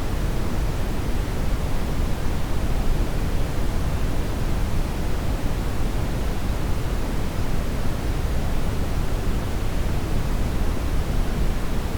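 Steady brown noise: an even, deep rushing hiss, strongest in the low end, with no change in level.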